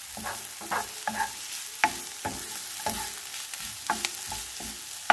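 Chopped onion, garlic and ginger sizzling in a frying pan while being stirred, with a steady hiss and irregular taps and scrapes of the utensil against the pan about every half second.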